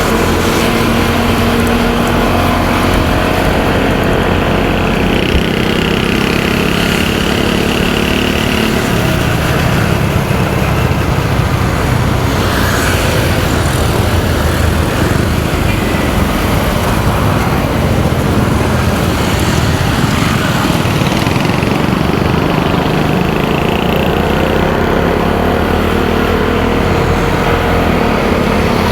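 Motorcycle engine running under way, its pitch rising and falling with throttle changes, over steady wind and road noise.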